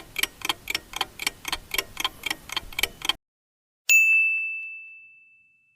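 Countdown timer sound effect: a clock ticking about four times a second for about three seconds, then a single bright bell ding that rings out and fades, marking the end of the answer time.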